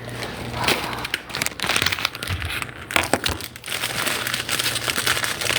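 Irregular crinkling and crackling close to the microphone, a quick run of small clicks.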